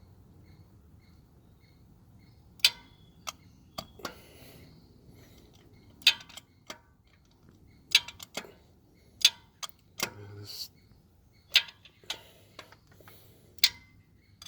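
Sharp metallic clicks of a ratchet-type wrench and socket tightening a spark plug, irregular, some in quick clusters. A faint steady ticking runs beneath for the first couple of seconds.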